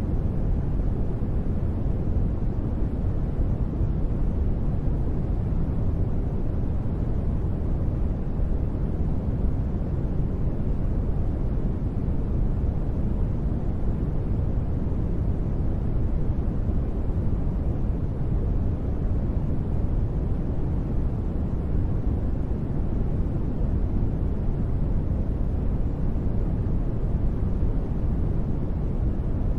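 Continuous sleep noise: a steady, even rushing hiss that is heavy in the bass with little treble, unchanging throughout.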